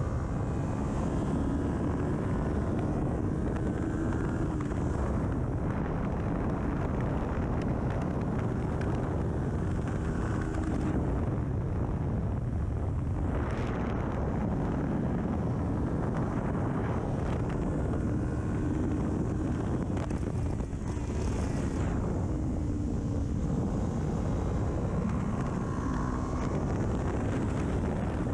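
Kawasaki Ninja 400's parallel-twin engine through an aftermarket full exhaust at speed on track, its pitch climbing and dropping again and again as it revs through the gears. Wind rushes over the microphone underneath.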